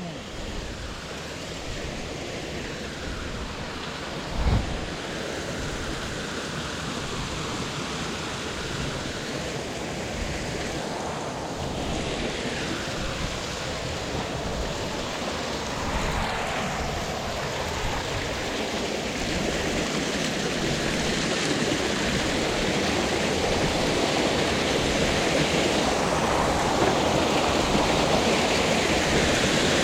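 Waterfall water running over rock, a steady rushing that grows slowly louder, with one low thump about four and a half seconds in.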